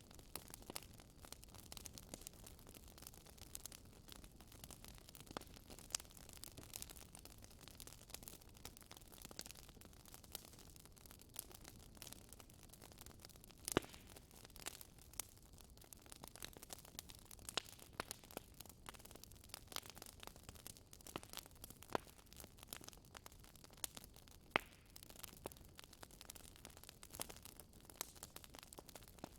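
Wood fire crackling softly, with irregular sharp pops and snaps over a faint hiss, a few of them louder.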